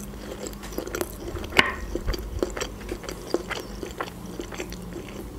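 Close-up chewing of a bitten-off piece of boiled sausage: small wet mouth clicks and smacks at an uneven pace.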